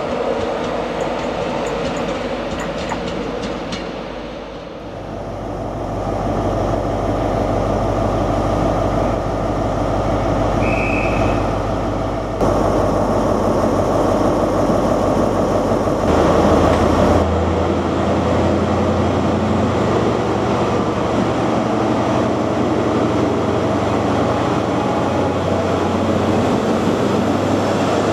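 A train passing through the station with wheels clicking over the rails, then a diesel power car's engine running with a steady low hum as the train moves along the platform; a short beep sounds about ten seconds in.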